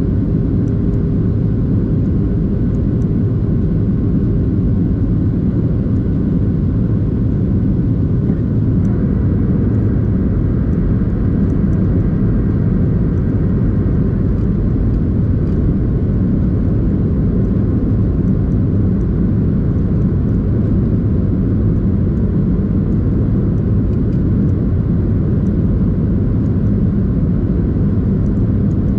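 Boeing 737-800 jet engines and airflow heard from inside the cabin: a loud, steady, low rumble with no sudden events.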